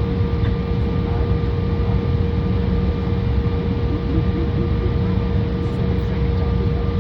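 Cabin noise inside an Embraer 175 airliner: the steady rumble of its jet engines and airflow, with a constant mid-pitched hum running through it.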